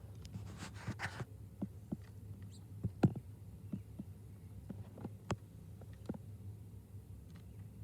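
Irregular light taps and knocks of birds pecking and landing at a bird feeder, one sharper knock about three seconds in, over a steady low hum.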